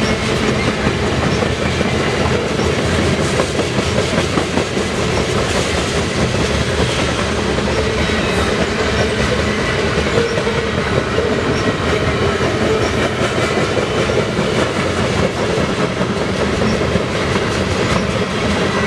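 Double-stack container train's cars rolling steadily past, a continuous loud noise of steel wheels on the rails with rapid clicks over the rail joints.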